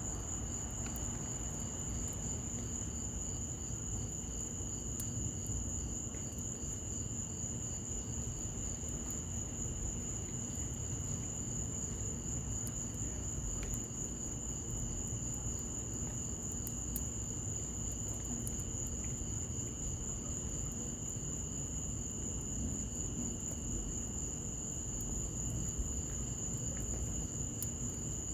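Crickets trilling steadily in several high, unbroken tones over a low background hiss. Scattered faint crackles come from a wood fire burning in a patio fireplace.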